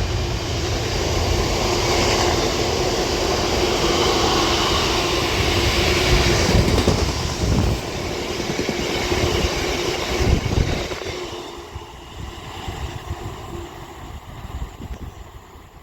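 Freight train hauled by a Class 66 diesel locomotive passing through, its wagons rolling by loud and steady, then fading away from about eleven seconds in.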